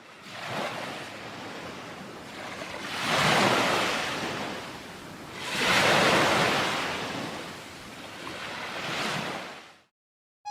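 Sea surf: waves washing ashore in four swells about three seconds apart, the second and third the loudest. It cuts off suddenly just before the end.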